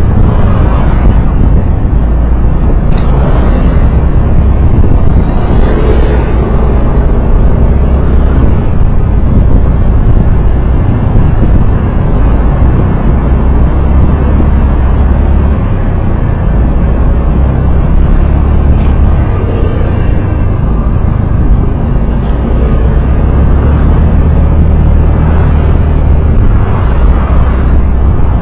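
Steady road and wind noise from a moving road vehicle, with a heavy low rumble and no distinct events standing out.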